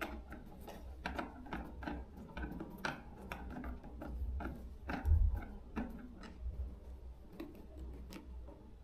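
Irregular light clicks and taps of small parts and hand tools being handled during a repair, with a dull thump about five seconds in.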